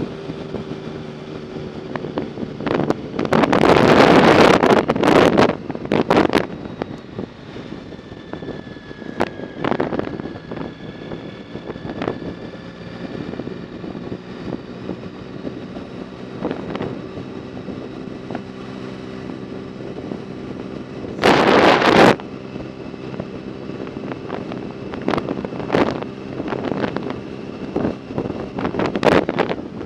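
Wind rushing over the microphone of a moving bike, with a steady hum underneath and scattered rattles. Two strong gusts buffet the microphone, one about three to six seconds in and a shorter one about 21 seconds in.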